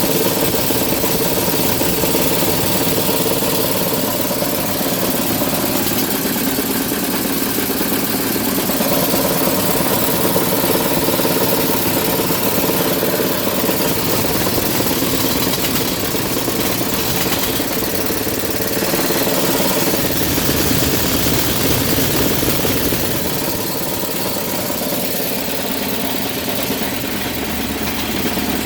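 Goodman furnace's indoor blower running with a loud, steady hum and heavy vibration. The blower housing and wheel are destroyed and shake the unit badly enough to cause intermittent low control voltage at the contactor.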